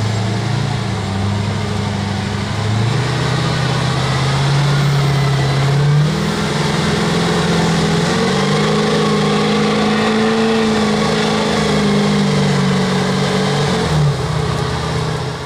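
Supercharged 565 cubic inch big-block Chevy V8 of a mud-bogging monster truck running under load. Its engine note steps up twice and drops again near the end.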